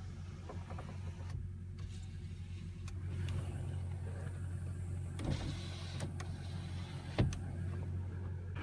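Cummins 5.9 turbo diesel idling steadily, a low even hum, with two sharp clicks about five and seven seconds in.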